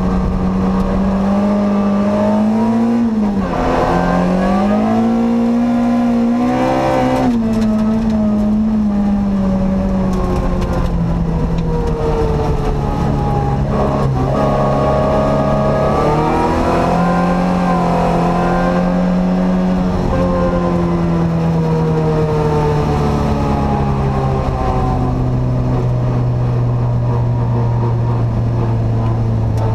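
Ford Ka's 1.6-litre four-cylinder rallycross engine, heard from inside the stripped cabin, running under load. The revs dip and climb again a few seconds in and drop near seven seconds, then fall slowly over the last ten seconds.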